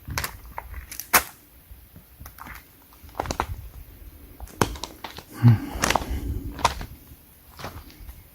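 Footsteps on rocky ground: irregular clacks and scuffs, with a louder low thud about five and a half seconds in.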